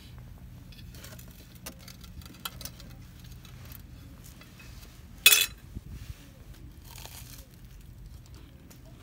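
Scattered small clicks and light crinkling, with one sharp knock or clink about five seconds in, the loudest sound.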